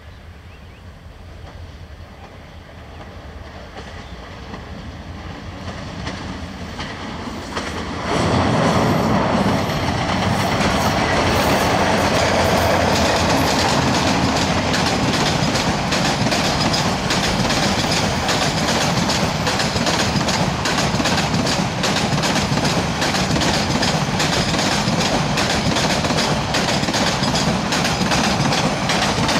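Diesel-hauled passenger train approaching, its sound building for about eight seconds and then turning suddenly louder. A steady clickety-clack of wheels over rail joints follows as a long rake of old Iranian-built vacuum-braked coaches passes close by.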